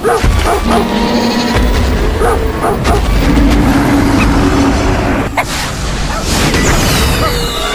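A dense mix of sound effects over a heavy low rumble: animal calls in the first half, then a sharp boom about five seconds in and several falling whistles near the end, with music underneath.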